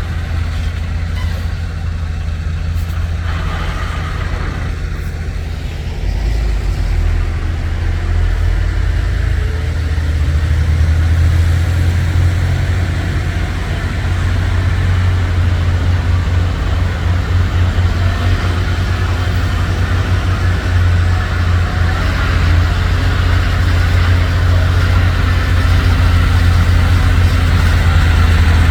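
A dump truck's heavy diesel engine running steadily with a deep, low hum. It grows somewhat louder over the second half.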